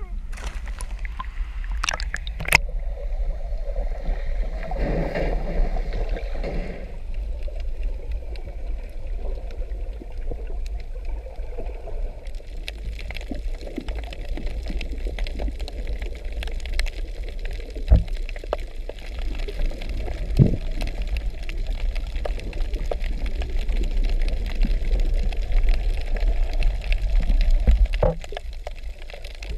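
Water gurgling and splashing over a steady low rumble, with scattered small knocks and clicks.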